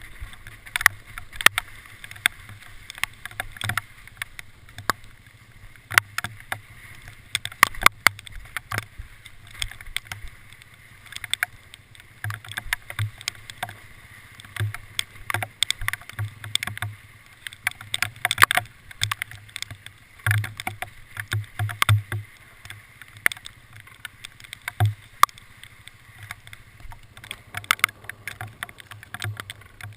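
Hail pelting a vehicle: a steady patter of irregular sharp taps over a low rumble.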